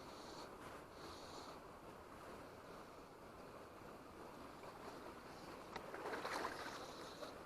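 Stream water running over rocks: a steady, faint rush that swells louder for about a second about six seconds in.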